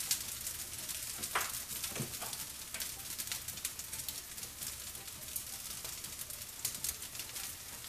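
Fried rice sizzling in a skillet, a steady crackling hiss. A couple of knocks come within the first two seconds.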